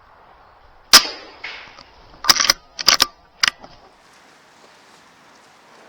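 A single sharp air rifle shot about a second in, the loudest sound, with a short ringing tail. It is followed by a quick run of sharp metallic clicks between about two and three and a half seconds in.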